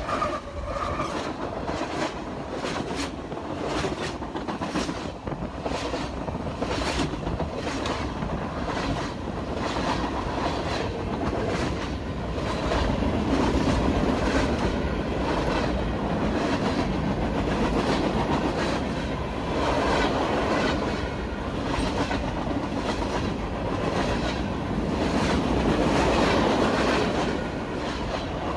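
Union Pacific freight train passing at speed: a locomotive, then boxcars and tank cars rolling by over a steady rumble. The wheels clack sharply over the rail joints, thickest in roughly the first dozen seconds.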